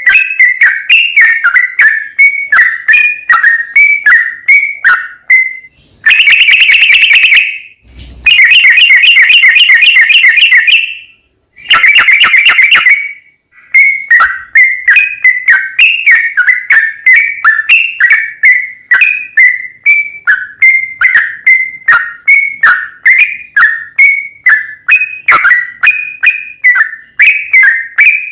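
Yellow-vented bulbul song: a rapid run of short, loud whistled notes, several a second. Between about six and thirteen seconds it breaks into three long, fast trills, then the chattering notes resume.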